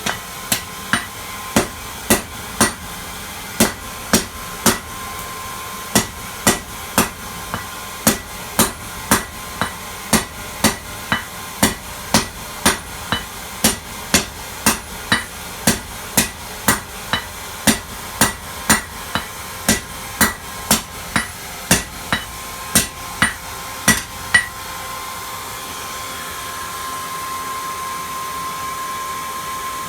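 Forging hammer striking metal on an anvil in a steady rhythm, a little under two blows a second, with a short pause about five seconds in; the blows stop about four-fifths of the way through. A steady blowing hum with a faint whine runs underneath and gets louder after the hammering stops.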